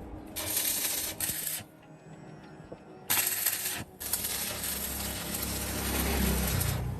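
Two spells of steady hissing, a short one and then a longer one of about four seconds with a brief break, with a low rumble building under the second.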